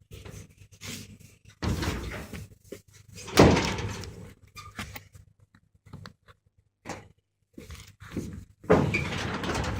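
Shop door being forced open, with irregular thuds and rattles; the loudest knock comes about three and a half seconds in and a longer scraping rattle starts near the end.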